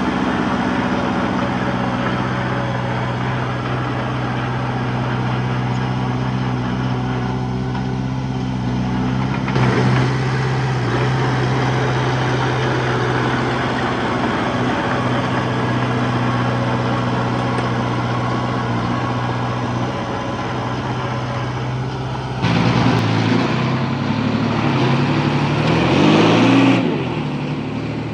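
Heavy earthmoving machine's diesel engine running steadily under load. About two-thirds of the way through it gets louder and revs up and down for a few seconds, then settles back.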